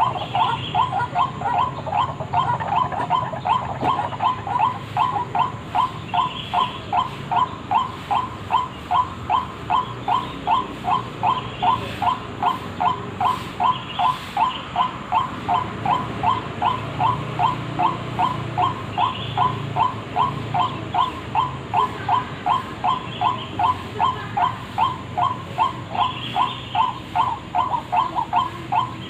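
White-breasted waterhen (ruak-ruak) lure call: one short note repeated over and over at an even pace, about two a second.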